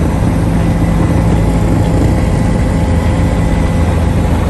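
Police helicopter running steadily: a constant low engine drone with a thin high tone held over it.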